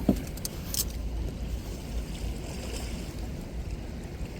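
Steady low rumble and wash of wind and water around a small fishing boat, with a few faint clicks in the first second.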